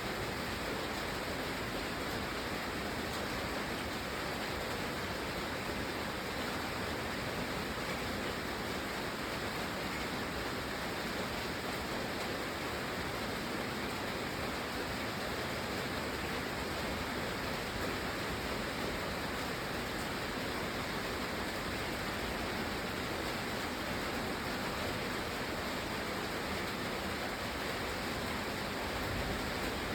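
Steady rain, an even hiss with no breaks or distinct single sounds.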